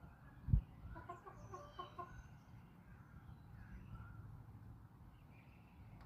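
Backyard chickens clucking, with a quick run of short clucks about a second in, over faint chirping of small birds and a steady low rumble. A dull low thump comes just before the clucks.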